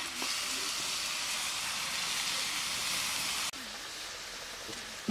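Hot oil sizzling in a cooking pan, a steady hiss that cuts off abruptly about three and a half seconds in.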